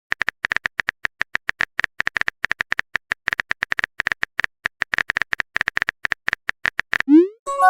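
Rapid, uneven run of short clicks from a keyboard-typing sound effect, as text is typed out in a chat. About seven seconds in it gives way to a quick rising swoop, then a bright chime of several tones near the end, like a message notification effect.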